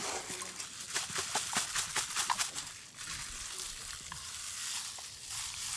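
Flameless self-heating lunchbox hissing and crackling as its heating pack reacts with water, with many quick crackles in the first few seconds and then a steadier hiss.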